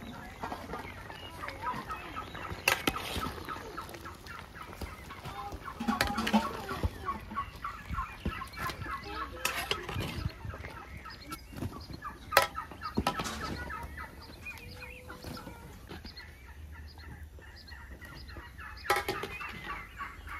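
Chickens clucking in quick runs of short notes, with a few sharp clinks of a metal ladle against the aluminium pans, the loudest about twelve seconds in.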